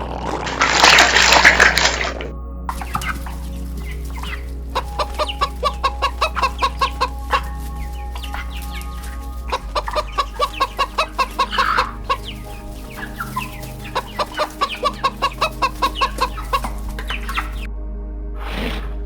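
Chickens clucking in several runs of quick, evenly spaced clucks, about four or five a second, after a loud rough burst in the first two seconds.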